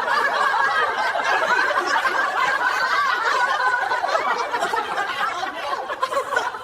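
Several people laughing together, their laughter overlapping and tailing off near the end.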